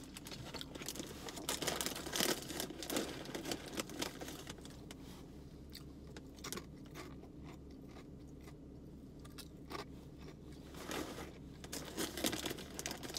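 A person chewing a crunchy snack close to the microphone: irregular crunches and mouth noises, with some crinkling of a wrapper, over a low steady hum.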